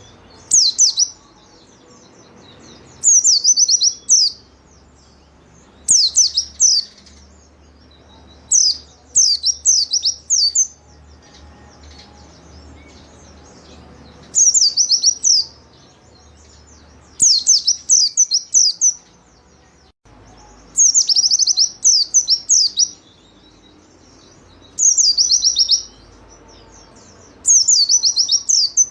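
A white-eye (pleci) singing in repeated bursts of rapid, high trilling chatter, each burst about a second long and coming every two to three seconds.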